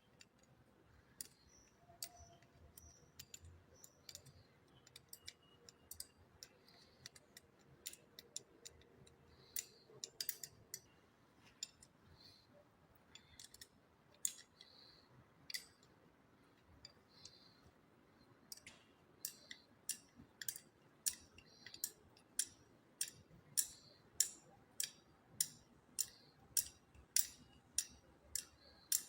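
Faint sharp clicks, scattered and irregular at first, then settling into a steady run of about two a second that grows louder over the last ten seconds.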